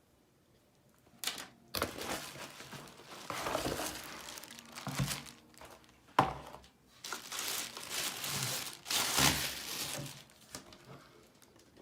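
Packaging being crumpled and handled in irregular bursts, with a few sharp knocks, starting about a second in and dying away near the end.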